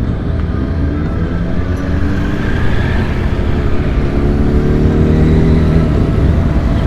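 Motorcycle engines running together, one accelerating with its pitch climbing for a few seconds before dropping sharply about six seconds in.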